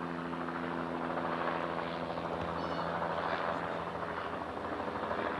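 A steady mechanical drone, a hum of several steady tones over a broad rushing noise; the hum fades out about four seconds in while the rush goes on.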